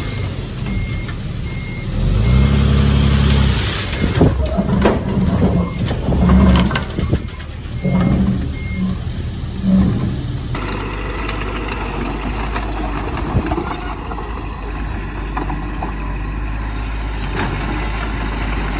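Heavy diesel machinery running and revving, with a reversing alarm beeping about once a second through the first half. About halfway through the revving stops and the engine settles into a steady run.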